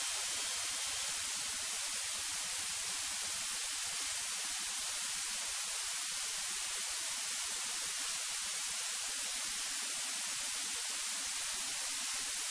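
Steady electronic hiss on the aircraft's intercom audio feed, even and unchanging, with no engine or other sound coming through it.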